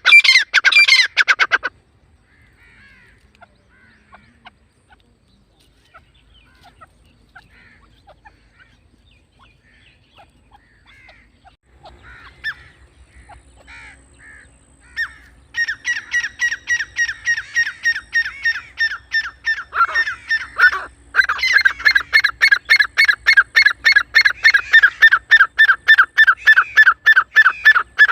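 Grey francolin (teetar) calling: a burst of loud shrill notes at the start, then faint chirps, then about halfway in a long, fast run of loud repeated notes, about three a second, which breaks briefly and goes on to the end.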